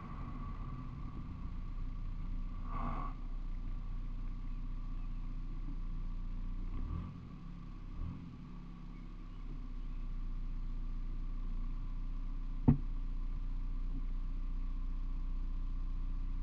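Car engine running with a steady low hum as the car comes to a stop, then idling, heard through a camera mounted on the outside of the driver's door. A single sharp click comes a little after two-thirds of the way through.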